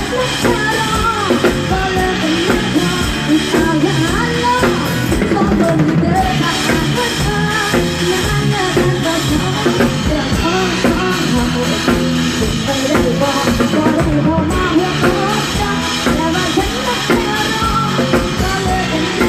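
Live band music: a singer over a drum kit and other instruments, with a steady beat.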